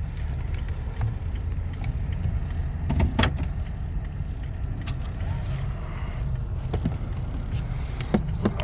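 A motor vehicle running with a steady low rumble, with scattered clicks and rattles.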